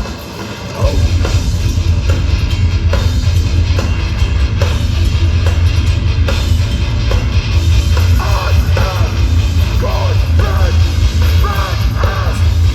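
Hardcore band playing live at full volume. Drums, bass and guitars come crashing in together about a second in, and vocals join over the band in the second half.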